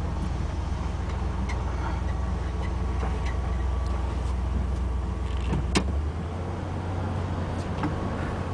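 1987 Ford F350's 351 Windsor V8 with a Holley four-barrel carburettor idling steadily, running sounding good after a cold start. About six seconds in the low note of the idle shifts, just after a sharp click.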